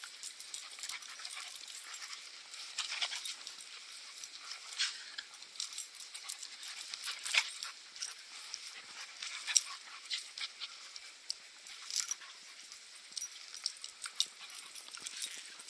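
Puppies at rough play, with scattered high yips and whimpers among many short, sharp clicks and scuffs.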